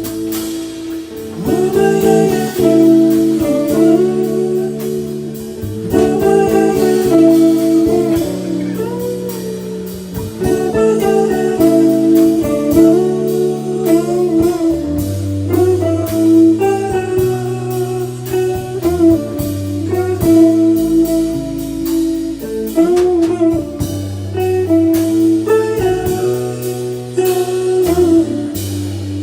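Instrumental jazz-blues: a guitar playing melody lines with bent notes over a bass line.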